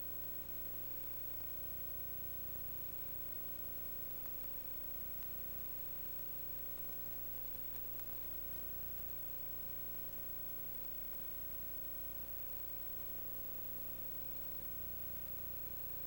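Steady hiss with a low electrical hum and a faint held tone underneath; nothing else happens.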